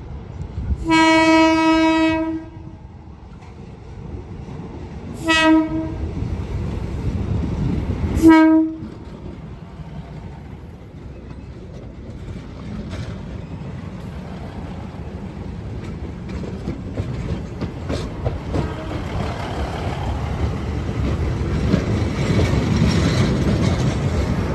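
Train arriving at a station: its horn sounds one long blast, then two short blasts a few seconds apart, followed by the rumble of the train and wheels on the rails, growing louder toward the end as it comes in.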